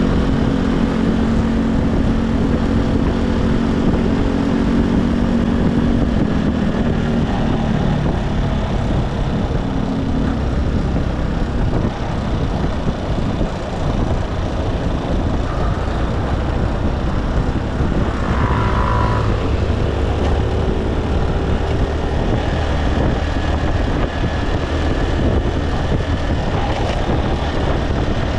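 Motorcycle engine running under heavy wind and road noise; its note holds steady, then drops away after about six seconds as the bike eases off. A brief high tone sounds about two-thirds of the way through.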